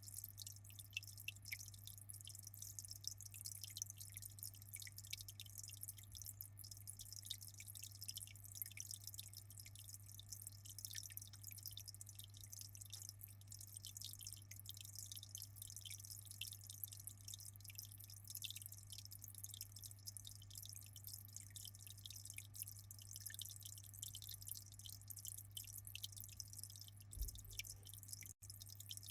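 Aquarium water trickling and dripping in many small, quick splashes, over a steady low hum.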